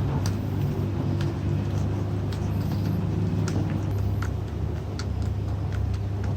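A motor-driven machine running steadily: a low hum with light, irregular clicks over it.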